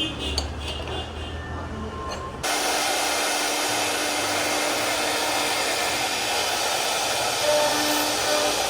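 Low machine rumble, then about two and a half seconds in an abrupt change to a loud, steady hiss with a steady hum: a CNC router's spindle cutting wood.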